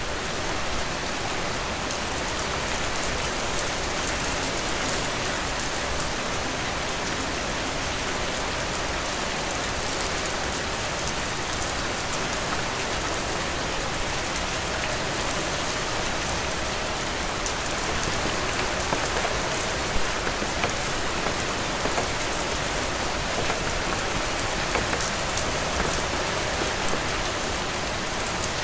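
Heavy rain falling steadily, a dense even hiss dotted with the ticks of individual drops striking a surface.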